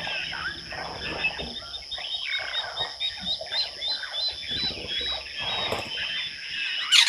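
Wild birds calling and chirping together, one repeating a short high note about three times a second through the middle, over a steady high-pitched ringing.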